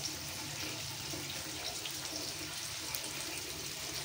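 Eggplant pieces sizzling steadily as they fry in a pan on a gas stove.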